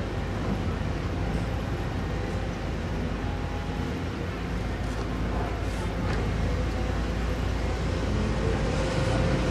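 Diesel engine of heavy construction machinery running steadily with a low hum, a few faint clicks over it, growing slightly louder near the end.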